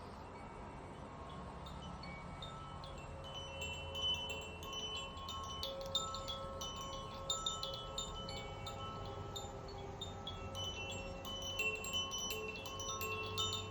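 Wind chimes tinkling in quick, irregular strikes, starting about three and a half seconds in and staying busy, over the sustained ringing of a crystal singing bowl.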